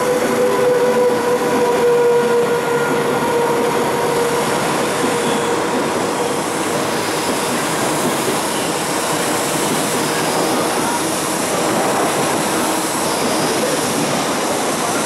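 Guangzhou–Kowloon through train rolling slowly past, its coaches' wheels making a steady running noise on the rails. A high, steady whine sounds in the first four seconds or so and then fades.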